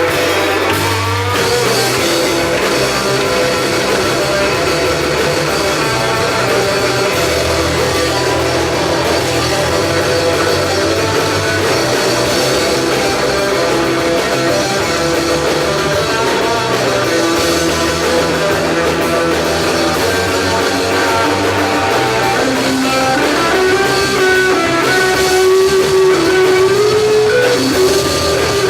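A rock band playing live, instrumental: electric guitars, bass and drum kit, with a guitar melody line coming forward in the last few seconds.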